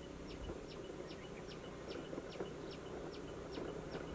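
A bird's short, high chirp repeated evenly a little more than twice a second, over the low, steady hum of a distant motorbike engine.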